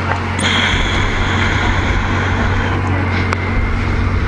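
Motor vehicle running close by: a steady low engine hum, with a high whine that starts suddenly about half a second in and fades out near three seconds.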